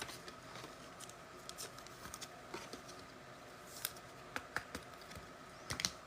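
Faint scattered clicks and light rustles of trading cards and packs being handled, with a few sharper clicks about four seconds in and near the end.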